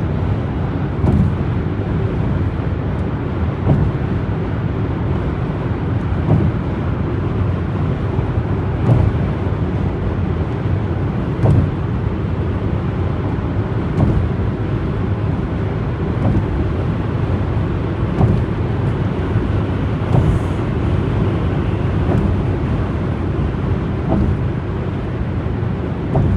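A car driving at a steady speed: a steady low rumble of road and tyre noise, with a light thump about every two to two and a half seconds.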